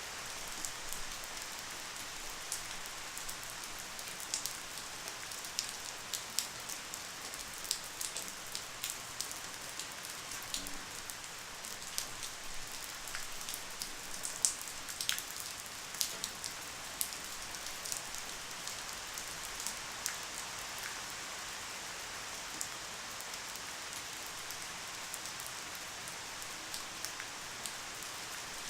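Light rain falling steadily: an even patter with many separate drops ticking sharply on a surface.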